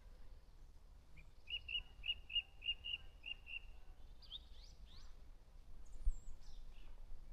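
Wild songbirds singing: a quick run of about eight evenly spaced short notes, then a few fast sweeping notes and a high gliding whistle.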